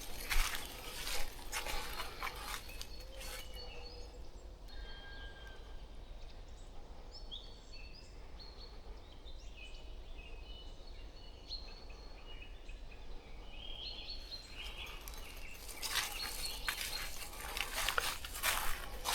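Small birds chirping and calling with short high notes in a quiet forest, framed by bursts of crackling and crunching in the first few seconds and again near the end.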